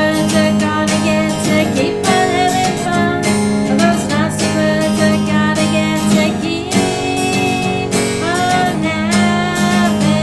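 Cole Clark Angel acoustic guitar strummed in a folk song, with a voice singing over it in places, recorded through a webcam microphone.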